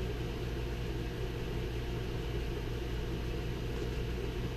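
A steady low hum, even throughout, with no knocks or clicks.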